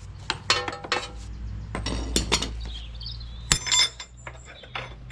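Metal tools clinking and knocking against metal, a dozen or so sharp strikes, the loudest a ringing clank about three and a half seconds in, over a low steady hum.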